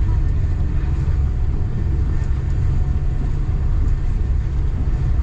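Passenger train running along the track: a steady low rumble with a few faint ticks, heard from inside the carriage.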